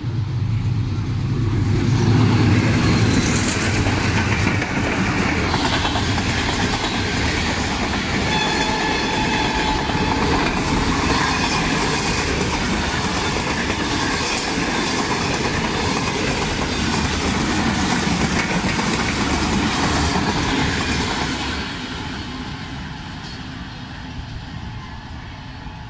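Express passenger train passing at speed close by. The diesel locomotive's low engine sound comes first and is loudest, then a long rush of coaches with wheels clattering over rail joints, fading away over the last few seconds.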